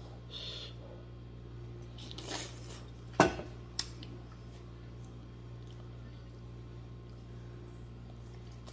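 Cutlery clinking against a dish during a meal: soft scraping, then one sharp clink about three seconds in and a lighter one just after, over a steady low hum.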